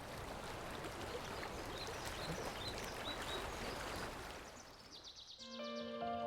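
Outdoor nature ambience: a steady rushing noise with a few brief, high bird chirps. It fades out about two thirds of the way through, and soft music with held notes comes in near the end.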